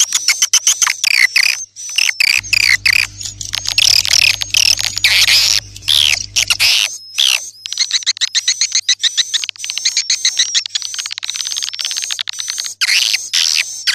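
Swiftlets twittering: a dense, continuous stream of rapid chirps and buzzy trills, the kind of recorded call track played to lure swiftlets into nesting houses. A low hum runs underneath for a few seconds, from about two and a half seconds in.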